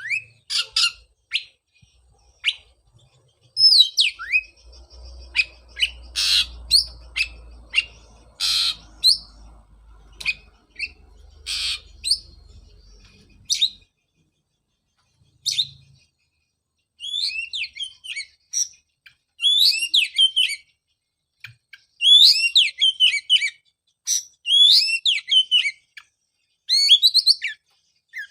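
Oriental magpie-robin (kacer) singing: loud varied whistles mixed with harsh rasping notes. In the second half the song turns to quick repeated phrases of falling, chattering notes with short pauses between them.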